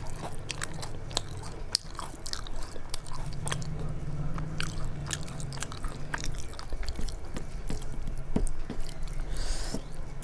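A person chewing close to the microphone while eating khichdi and fried fritters by hand: many sharp, wet mouth clicks and smacks, with a low hum underneath. A short squishy sound comes near the end.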